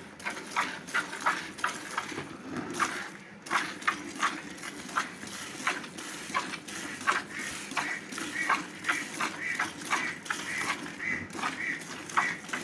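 A cow being milked by hand into a bucket: quick, rhythmic squirts of milk, about two to three a second, hissing into the pail.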